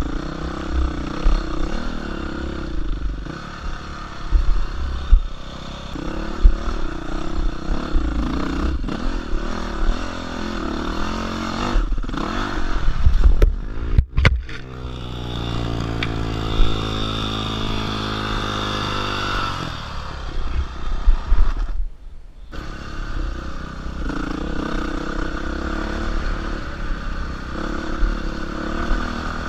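Dirt bike engine running under a rider on rough trail, its revs rising and falling unevenly, with short loud knocks and rattles. About halfway through the sound cuts out briefly, then the engine holds a steadier, slowly falling note for several seconds before another short break.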